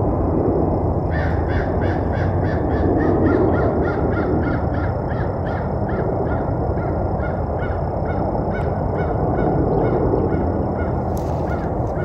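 A bird calling a long series of harsh, honking notes, about three to four a second at first and slowing toward the end, over steady low background noise.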